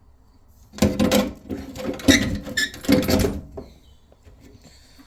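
Metal parts knocking and clanking, a run of hits with a brief ringing tone between about one and three and a half seconds in, as the old tap fitting, cut free with a grinder, is worked loose.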